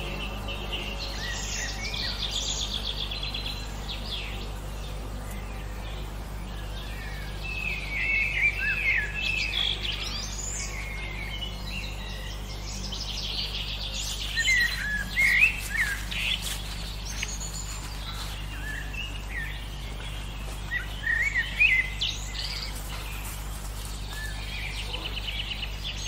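Several songbirds singing and chirping, with rapid trills and quick whistled, gliding notes, over a faint steady low background hum.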